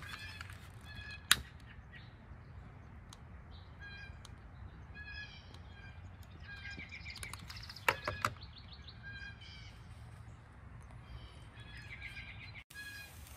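Songbird singing short chirping phrases again and again over a low steady background rumble. A sharp click comes about a second in, and a quick cluster of clicks near the middle.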